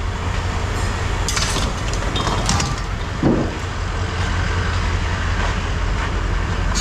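A vehicle engine idling steadily while scrap metal is handled: a few clanks and rattles, then a dull thump about three seconds in.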